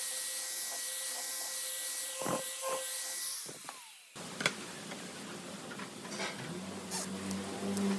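Workshop power tool running with a steady hiss and whine, fading out; then, after a sudden change, hissing with scattered clicks and a low hum that starts near the end.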